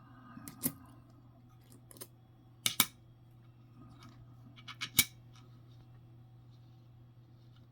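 Jefferson nickels clicking sharply against each other and a hard surface as they are handled and set down, in a few short clusters of clicks, over a steady low hum.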